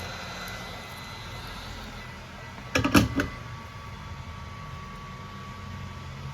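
A quick cluster of sharp clicks or taps, like a hard tool knocking on or being set down on a hard surface, about three seconds in, over a steady electrical hum with a faint high whine.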